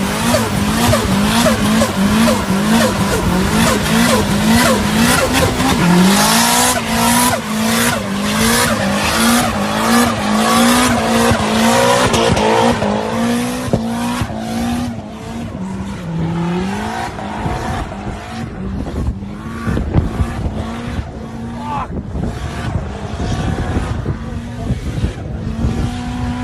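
Turbocharged Nissan S15 doing a burnout: the engine is held at high revs with its pitch bouncing up and down over and over, the tyres squealing, and a rapid chattering of turbo flutter over the top. The intensity eases somewhat about halfway through.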